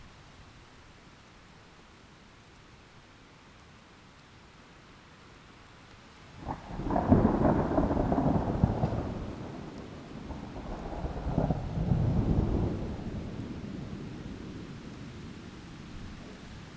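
Thunderstorm: steady light rain, then a sudden thunderclap about six and a half seconds in that rolls on for a few seconds, followed by a second roll of thunder that slowly fades.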